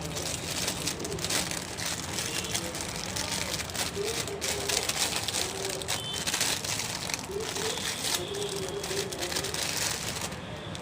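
Plastic packaging crinkling and rustling in irregular bursts as a tripod is unwrapped by hand.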